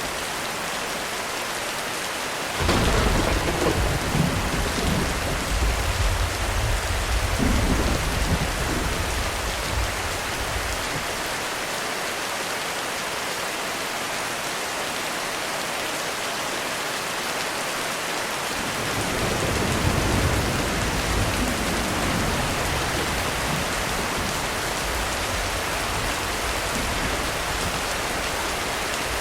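Heavy rain falling steadily on a roof. A sudden clap of thunder breaks in about two and a half seconds in and rumbles on for several seconds. A second, softer roll of thunder swells and fades about two-thirds of the way through.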